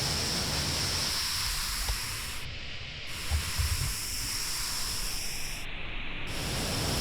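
Steady rushing noise of a waterfall, with the level dipping slightly for a moment in the middle.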